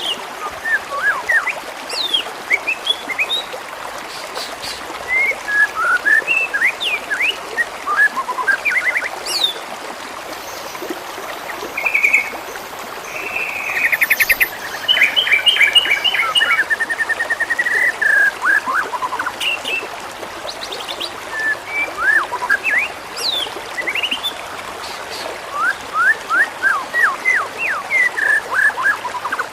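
Songbird masteran recording: birds chirping in many quick, falling whistled notes, with a louder run of trills in the middle, over a steady background hiss.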